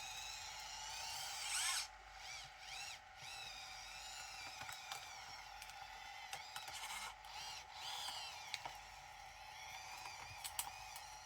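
Small electric motor whining in a series of short runs, its pitch rising and falling with each speed-up and slow-down, over a steady high hum, with a few light clicks.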